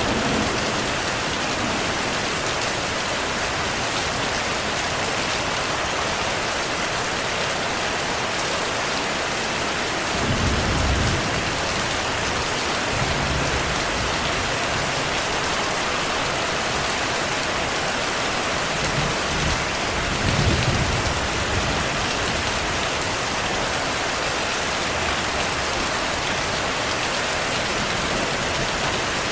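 Steady rainfall with low thunder rumbling in the background, swelling about ten seconds in and again around twenty seconds in.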